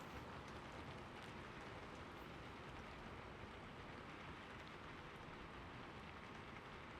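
Steady rain falling on a surface: a soft, even hiss with faint scattered drop ticks.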